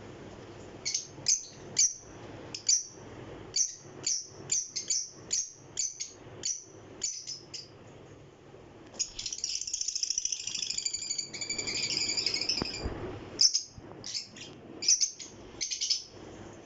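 Small pet parrots calling: a run of sharp, high chirps about two a second, then several seconds of continuous chattering around the middle, then more sharp chirps near the end.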